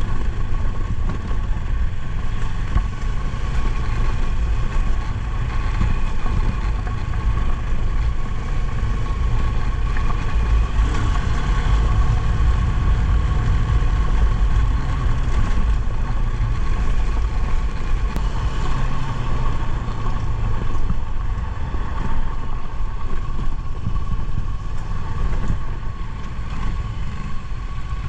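Motorcycle engine running steadily while riding, with a constant low rumble and a steady high tone over it.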